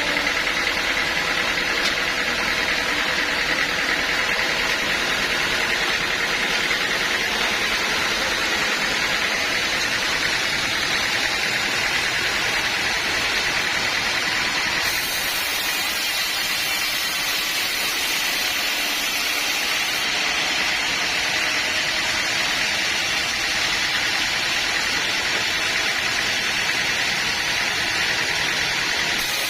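Sawmill machinery running steadily: a constant mechanical noise with an even, high-pitched hum, unchanging in level.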